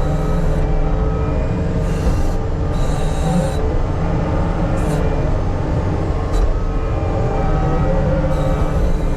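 Heavy earthmoving machine running steadily, a low diesel rumble with steady metallic squealing tones over it and short hissy bursts every second or so.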